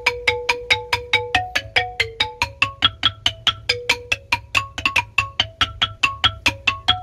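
Rindik, a Balinese bamboo xylophone, played in a quick run of struck notes, about six a second, over a steady low rumble.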